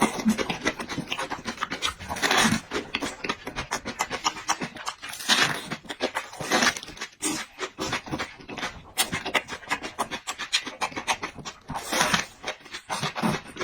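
Close-up eating sounds: a person chewing and slurping noodles and meat, with dense wet clicks and noisy bursts every second or so.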